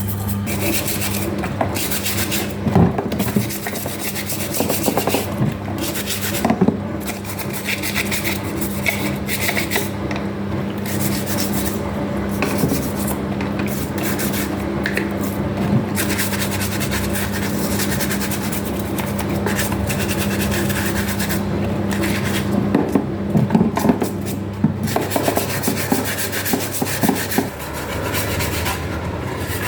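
Irregular rubbing and scraping strokes over a steady low hum that keeps going throughout.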